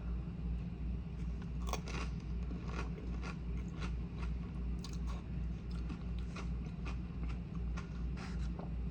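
Close-up eating sounds: crunching and chewing food, with many small clicks from mouth and food. A low hum pulses steadily underneath.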